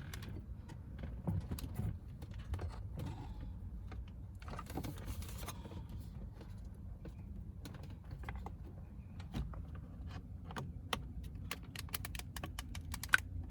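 Scattered clicks, taps and light rattles of plastic dashboard trim and the iDrive display being handled and fitted back into place in a BMW X5, over a low steady rumble.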